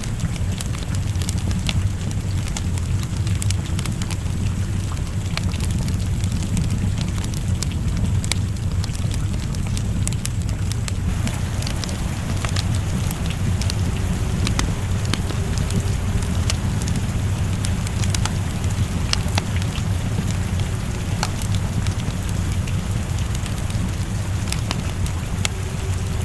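Wood fire crackling with scattered sharp pops, over steady rain and a continuous low rumble.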